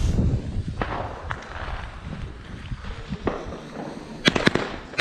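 Fireworks going off: irregular bangs and cracks over a low rumble, with a quick cluster of sharp, loud cracks a little after four seconds.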